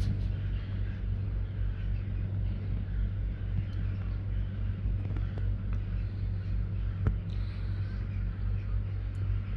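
Steady low rumble of city traffic, with the faint chatter of a large bird flock above it and one sharp click about seven seconds in.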